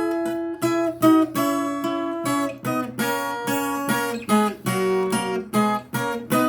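Viola caipira (Brazilian ten-string folk guitar) playing an instrumental melody of plucked, ringing notes between sung verses, several notes a second.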